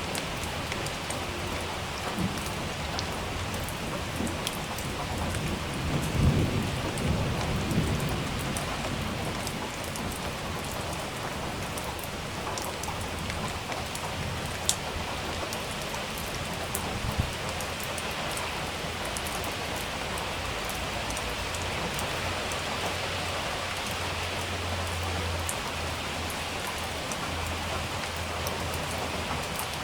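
Steady rain falling, with scattered drops ticking close by. About six seconds in, a roll of thunder rumbles low for two seconds or so, and two sharp drip clicks stand out later.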